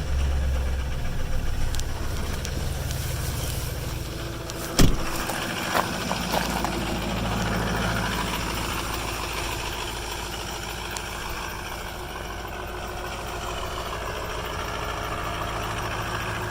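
2005 6.0-litre V8 truck engine idling just after a cold start at about zero degrees. A sharp knock comes about five seconds in, followed by a couple of lighter clicks.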